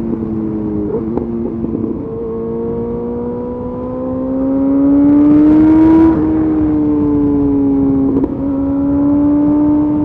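Yamaha FZ8's inline-four engine through a LeoVince exhaust with the dB killer removed, pulling under acceleration: the pitch climbs slowly for about four seconds and gets louder, drops suddenly about six seconds in at an upshift, and dips briefly again near the end with another shift.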